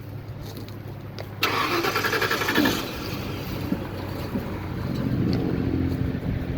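1994 Ford F-150 pickup engine being started: the starter cranks briefly about a second and a half in, then the engine catches and runs, with a short rise and fall in revs near the end.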